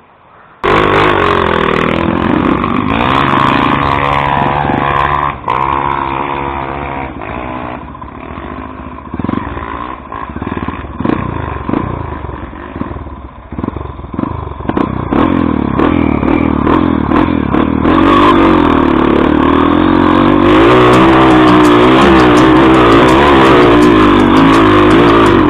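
Off-road motorcycle engine revving up and down under load, starting abruptly just under a second in and getting louder and steadier near the end.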